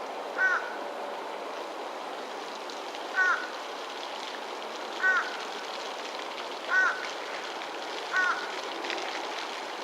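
An animal giving five short, high calls at irregular intervals over a steady background hiss.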